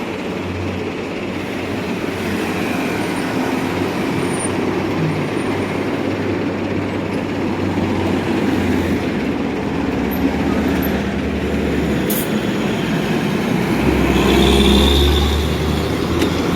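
Heavy diesel buses running past on a highway, a continuous engine rumble mixed with road noise. A short sharp hiss comes about twelve seconds in, and a louder vehicle passes close near the end.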